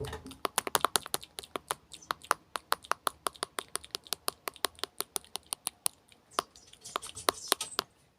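A rapid, uneven run of sharp ASMR clicking sounds, about six to eight clicks a second, with a brief thinning near the end.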